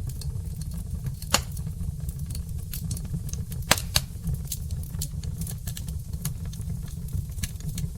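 Log fire crackling in a fireplace: a steady low rumble under frequent small pops, with a sharper snap about a second and a half in and two more close together near the middle.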